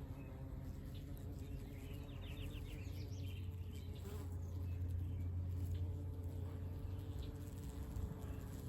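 Honeybees buzzing around their hives: a steady low hum that swells a little midway.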